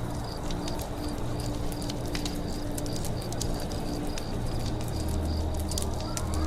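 Campfire crackling, with sharp pops scattered throughout, over a forest background that has a high chirp repeating about three times a second.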